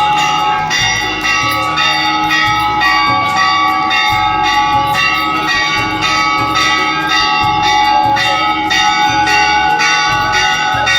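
Temple bells rung rapidly and continuously, about two to three strikes a second, each stroke adding to a sustained metallic ringing.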